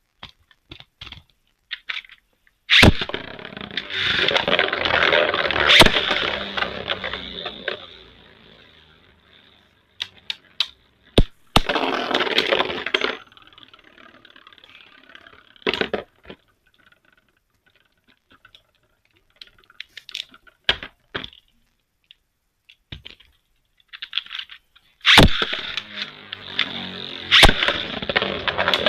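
Beyblade Burst spinning tops, Xcalibur and God Valkyrie, launched into a plastic stadium and spinning, scraping and clashing with sharp cracking hits. The clashing fades out after a few seconds and comes in again about three-quarters of the way through. Short plastic clicks of launchers and parts sound between the rounds.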